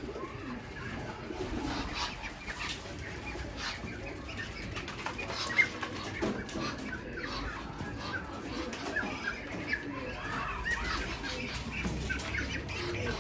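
Flock of pigeons in a loft, with wings flapping and many short calls from the birds, some clucking like fowl. One sharp, louder flap or knock about five and a half seconds in.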